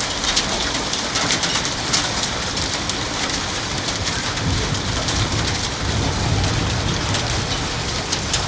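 Heavy rain with hail pelting down: a steady downpour dotted with many sharp ticks of hailstones striking hard surfaces, with a low rumble in the middle.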